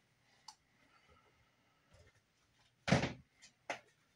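Light knocks and clicks of a plastic model railcar being handled and set down onto model railway track. The loudest thump comes near the three-second mark, with a smaller knock just after it.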